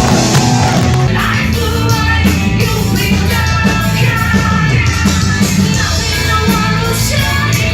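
Metal band playing live at full volume, with a voice singing over heavy, dense low-end instruments.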